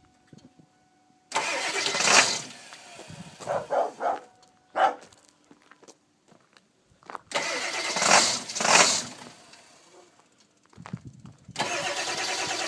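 1999 Ford 7.3 Powerstroke V8 diesel being cranked over by its starter in three separate bursts without catching. This is a hard start, caused by a bad glow plug relay.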